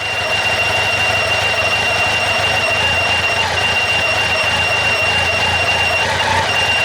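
Honda CB1100SF X11's inline-four engine running with a steady high-pitched squeal, which the owner traces to the water pump. The squeal drops out briefly a couple of times.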